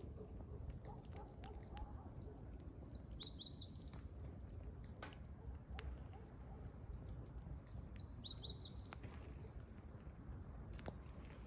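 Wood fire burning with scattered sharp crackles and pops, while a songbird sings a short, high, twittering phrase twice, about five seconds apart.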